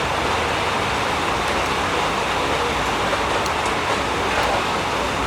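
Heavy storm rain pouring down, a steady, even roar.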